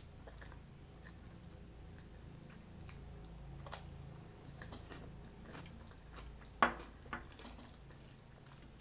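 A person chewing a bite of crisp cucumber close to the microphone: scattered wet clicks and crunches, the sharpest about two-thirds of the way through.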